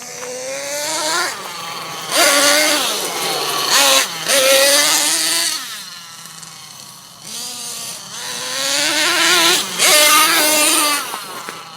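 Small nitro engine of a radio-controlled monster truck revving up and down in two long surges, its pitch rising and falling, easing back to a lower, steadier note about six seconds in between them.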